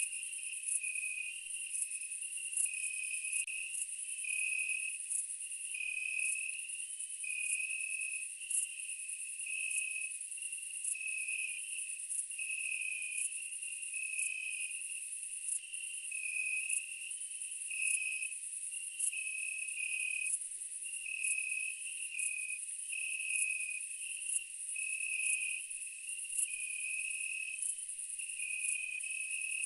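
Night insect chorus of crickets and similar insects: a steady, high, shrill trill with a lower chirp pulsing about once a second. No eruption sound is heard.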